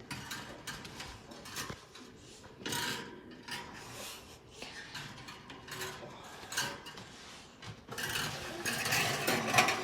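Light clicks, knocks and rustling of small objects being handled, with a louder stretch of rubbing and clatter near the end.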